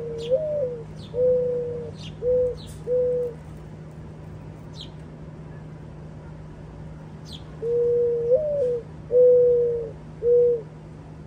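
Mourning dove singing its cooing song twice: a slurred rising-and-falling first coo followed by two or three steady, even coos, the second phrase starting about halfway through. Short high chirps, typical of house sparrows, sound now and then over the cooing.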